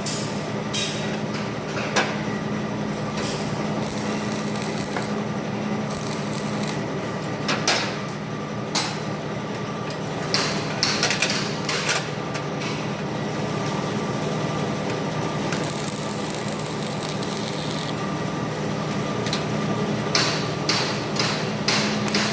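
Metal fabrication work: a steady buzzing hum runs throughout, broken by scattered sharp knocks and taps that come in clusters.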